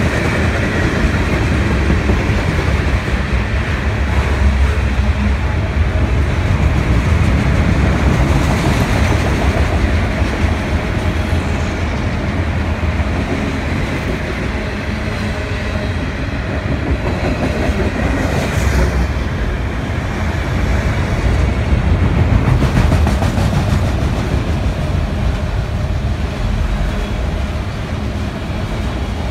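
CN freight train's tank cars and autorack cars rolling past close by: steady noise of steel wheels running on the rails.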